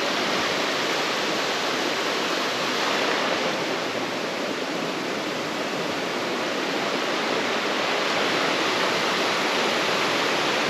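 A creek's running water rushing steadily.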